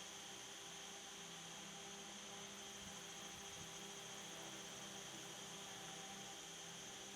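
Faint steady electrical hum with a background hiss, with no tool or work sounds.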